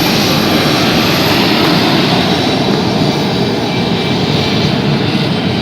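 Jet airliner's engines passing overhead: a loud, steady rushing noise.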